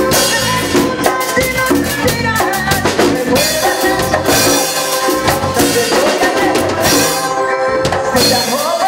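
Grupero band music with a steady beat on drum kit, kick and snare, under bass and melody lines.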